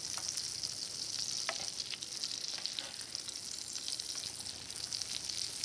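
A biscuit-dough fruit fry pie frying in butter in a skillet: a steady high sizzle with fine popping crackles.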